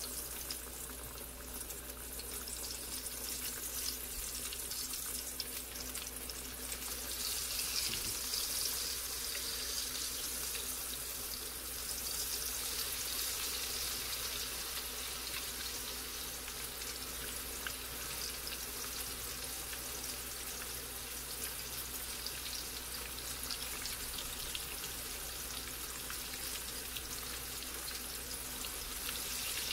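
Slices of apple-filled yeast dough frying in hot oil in a skillet: a steady sizzle with fine crackling. It swells louder about seven seconds in, as more slices go into the oil.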